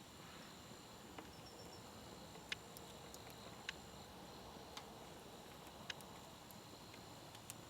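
Campfire crackling faintly, with occasional sharp pops from the burning wood, roughly one a second, over a low steady hiss.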